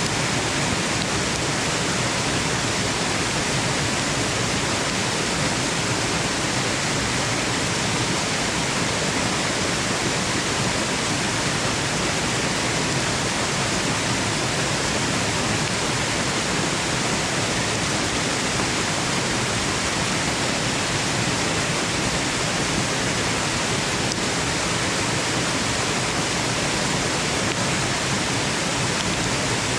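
Waterfall rushing, a steady, even hiss of falling water that doesn't change.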